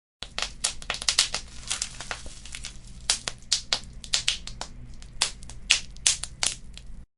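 Wood fire crackling, with dense sharp pops of varying loudness over a faint low rumble. It cuts in from dead silence at the start and cuts off abruptly just before the end.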